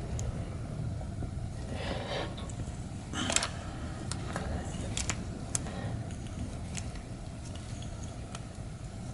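Light clicks and clinks of metal pipe fittings and tools being handled, with a couple of short scrapes about two and three seconds in, over a steady low hum.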